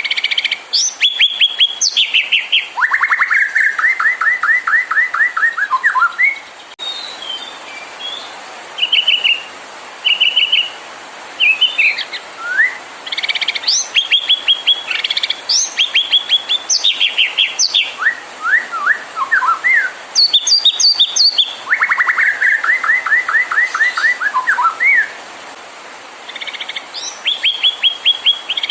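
White-rumped shama (murai batu) singing a varied song. Runs of quickly repeated notes alternate with short clear whistles and rising and falling sweeps, with brief pauses between phrases. This is the kind of excited song played as a lure to provoke caged shamas into singing.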